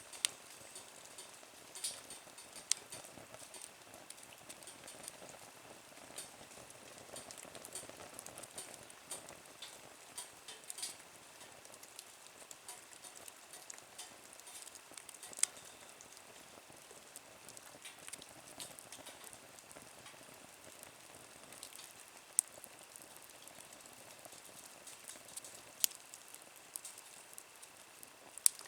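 Wood fire crackling in a small Nature Stove used as a fire pit: a steady low hiss with constant fine crackles and a handful of sharp, loud pops spread through.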